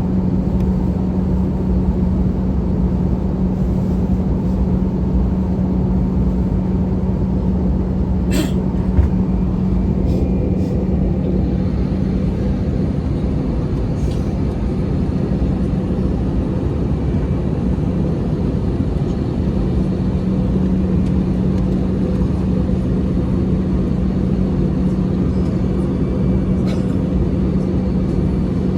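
Cabin noise aboard an Airbus A320-214 airliner: a steady rumble of engines and airflow with a constant low hum. A few faint clicks come about 8 seconds and 14 seconds in.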